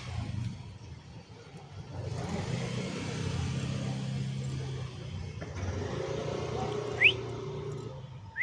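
A road vehicle passing with a steady low rumble. About seven seconds in there is one short, sharp, rising whistled note, the loudest sound.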